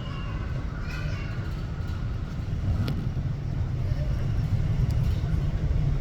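Low, steady rumble of jet aircraft engines, growing slightly louder toward the end, with faint higher tones in the first second or so.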